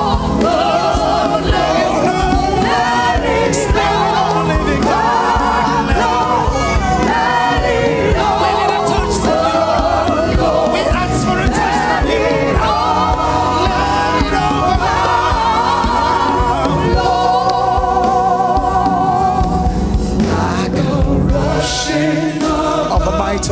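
Gospel choir singing with live band accompaniment and drums, steady and loud throughout.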